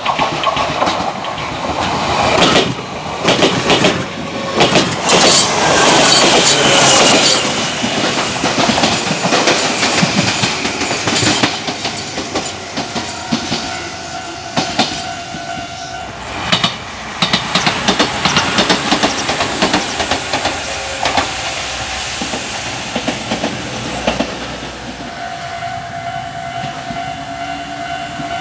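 Enshu Railway electric commuter train passing close by on jointed track, its wheels clacking rapidly over the rail joints, loudest in the first several seconds and then rolling away. Near the end a steady level-crossing warning tone starts up.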